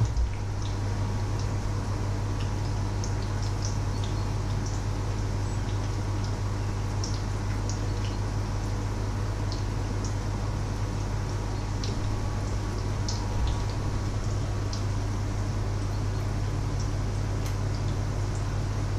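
Batter patties frying in a pan of hot oil: irregular small pops and crackles of spitting fat over a steady low hum.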